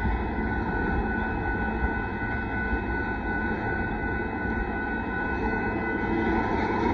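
KCSM double-stack intermodal freight train rolling steadily past a grade crossing: a continuous low rumble of wheels on rail with thin, steady high tones ringing over it.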